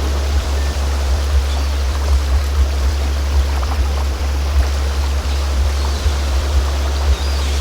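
A steady, deep low tone from a synthesised sound-healing frequency track. Under it runs a continuous bed of flowing stream water.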